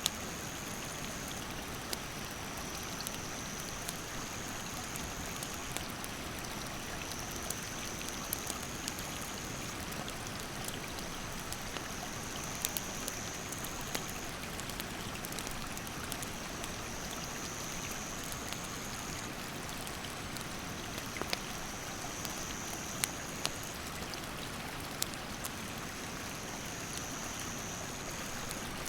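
Rushing mountain stream with a wood campfire crackling, sharp pops scattered irregularly through it. A high-pitched insect trill comes and goes in stretches of one to four seconds.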